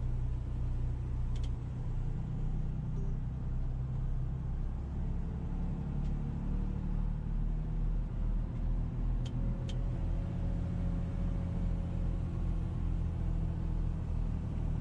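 Motor vehicle running: a steady low rumble with a few faint ticks.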